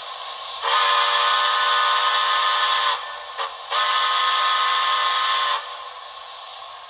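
Steam whistle from the Paragon4 sound decoder of an HO scale NYC Hudson model, played through the locomotive's small speaker: a long chime-whistle blast, a brief toot, then a second long blast that cuts off and fades.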